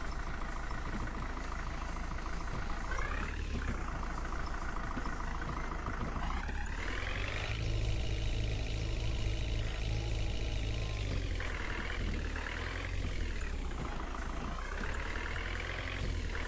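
Tractor engine running, its pitch rising and falling several times as the engine speed changes.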